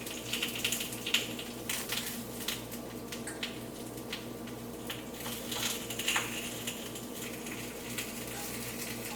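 A cooking utensil clicking and scraping against a pan of onions frying in oil, with a light sizzle and a steady low hum underneath.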